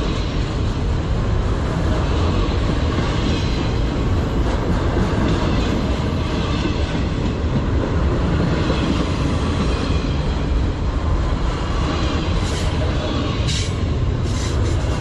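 Autorack freight cars rolling past close by: a steady, loud rumble of steel wheels on the rails. Two brief sharp high noises stand out near the end.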